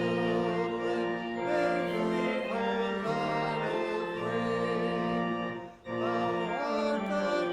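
Congregation singing a hymn to organ accompaniment, in long held chords that move step by step, with a brief break between phrases about six seconds in.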